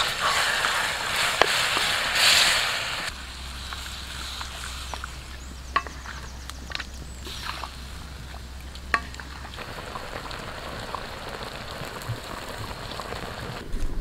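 Chicken pieces sizzling in a wok as they are stirred with a wooden spatula. About three seconds in the sizzle drops away, leaving quieter scattered taps and scrapes of the spatula against the wok.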